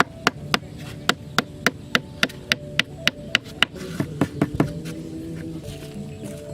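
A fast, even series of sharp taps, about three to four a second, that stops about four and a half seconds in, over a steady held tone.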